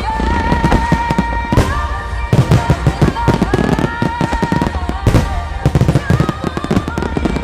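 A fireworks finale: aerial shells bursting in rapid, overlapping succession, with heavy booms and sharp cracks. Loud music with a sustained melody plays under the bursts.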